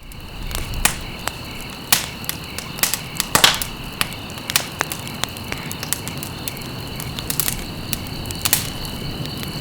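Wood campfire crackling, with irregular sharp pops and snaps, the loudest about three and a half seconds in, over a steady faint high-pitched tone.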